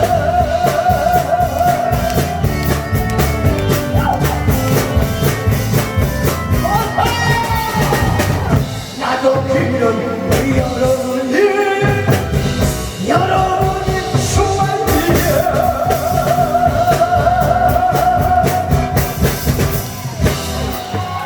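A singer's voice with a wavering vibrato over a backing track with drums keeping a steady beat.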